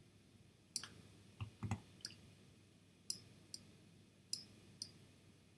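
Computer mouse clicking, about eight sharp clicks at uneven intervals, some in quick pairs, as edits are made in photo-editing software.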